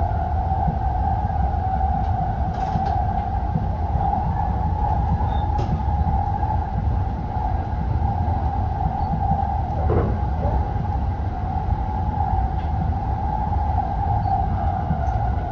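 Saphir Odoriko E261-series electric train running at steady speed: a constant low rumble of wheels on track under a steady whine. A brief falling tone comes about ten seconds in.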